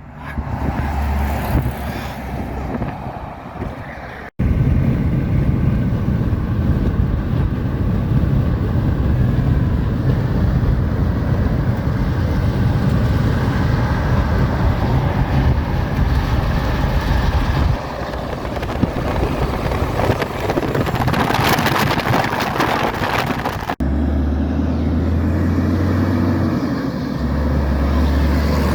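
Diesel engines of cabover semi-trucks running, in three clips cut together, with a deep, steady rumble. Near the end of the middle clip a hiss rises over the engine.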